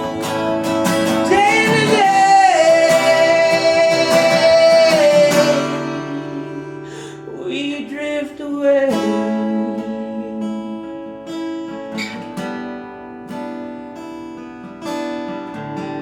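Acoustic guitar strummed steadily, with a man's voice holding a long wordless note from about a second in to about five seconds, and singing briefly again near the middle; the guitar carries on alone after that.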